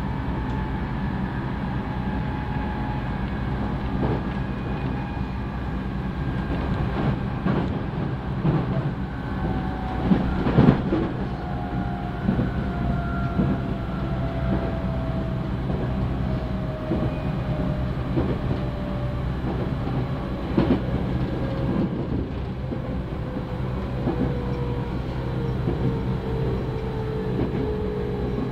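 JR Central 311 series electric train running on the rails, heard from inside the carriage: a steady low rumble with a few sharp knocks over rail joints. A motor whine slowly falls in pitch as the train slows.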